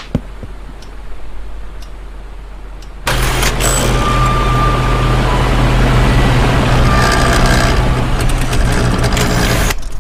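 A steady motor-like drone with a low hum, starting suddenly about three seconds in and cutting off just before the end.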